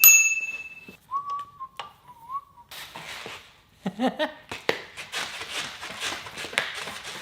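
Bicycle bell on the handlebar rung twice, its bright ring dying away over about a second, followed by a person whistling a short wavering tune. Then light rustling and clattering of handling the bike.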